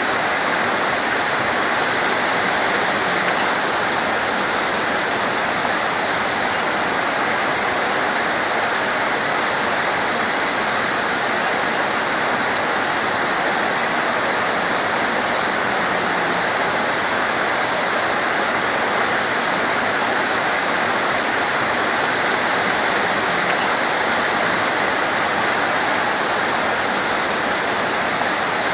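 Torrential rain falling steadily, a dense, even hiss with no let-up. A single short click sounds about halfway through.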